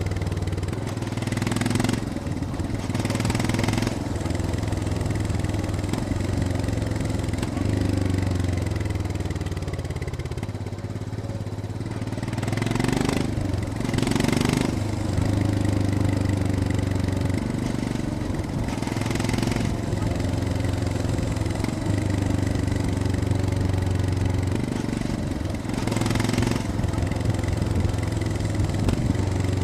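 Royal Enfield Scram 411's single-cylinder engine running on a downhill ride, its pitch shifting as revs rise and fall. Brief rushes of noise come through several times.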